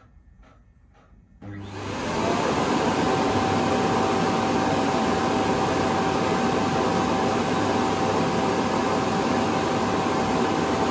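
Dreame D10 robot vacuum's self-emptying dock starting up about a second and a half in, then running with a loud, steady suction rush and a steady whine as it pulls the dust out of the docked robot's bin.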